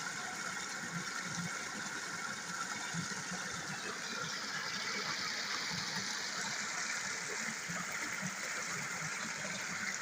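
Floodwater flowing steadily, an even rush of water.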